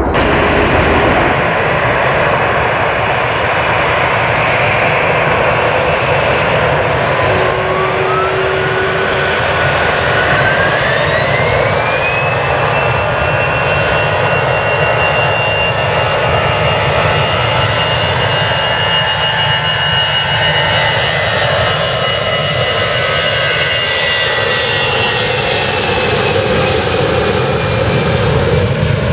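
Jet airliner departing under takeoff power: a loud, steady engine rumble. A thin whine climbs in two steps about a quarter to a third of the way in and then holds high, as the engines spool up to full thrust.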